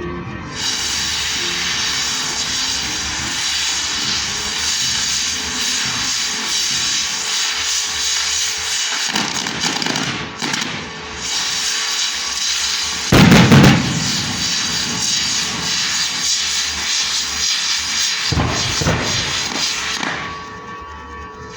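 Fireworks going off: a continuous dense crackle with a few deep booms, the loudest and heaviest about thirteen seconds in, with smaller ones around nine and eighteen seconds in.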